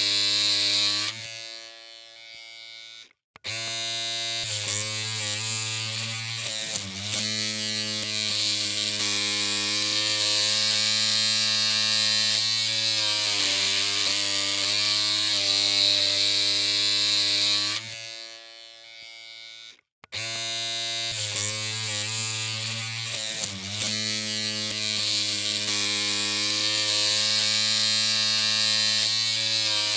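Electric hair clippers buzzing steadily, a low even hum with a rattly edge. Twice the buzz fades away and cuts out for a moment, then starts up again.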